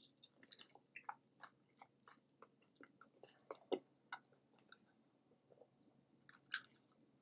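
A person chewing a big bite of bacon jalapeño cheeseburger: faint, irregular wet mouth clicks and smacks, with one louder smack about halfway and a few more near the end.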